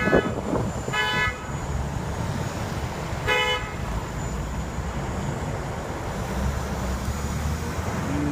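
A vehicle horn honking in three short toots, the first right at the start, then about a second in and about three and a half seconds in, over a steady low rumble of street traffic. A few low thumps come at the very start.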